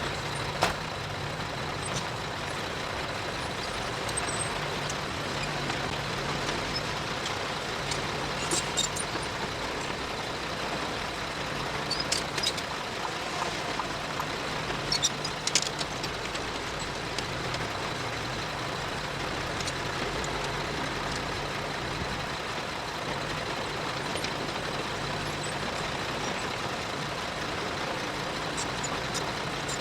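Heavy earth-moving machinery's diesel engine running steadily, with a few sharp knocks about one, nine, twelve and fifteen seconds in.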